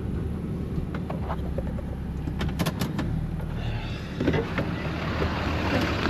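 Truck engine running with a steady low rumble, with a few sharp clicks or rattles; about four seconds in a broad hiss rises over it.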